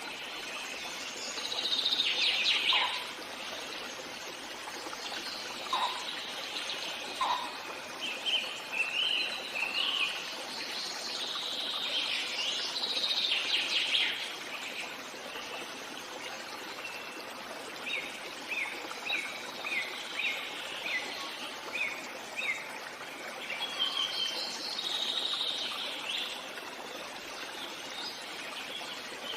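Birds singing and chirping over a steady background hiss, with a run of short quick chirps a little past the middle.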